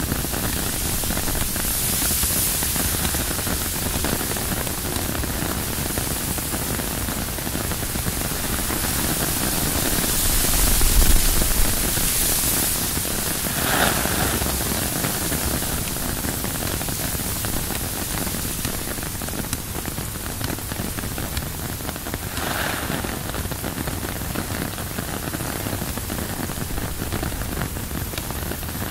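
Steady rain on a tent's fabric in wind, a dense even patter, with a gust swelling it louder about a third of the way through.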